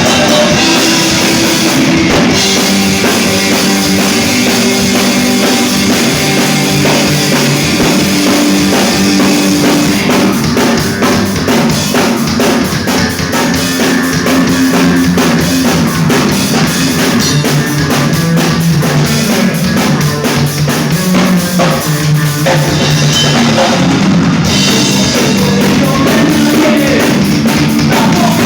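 Rock band playing live, with a full drum kit to the fore, bass drum and guitar under it.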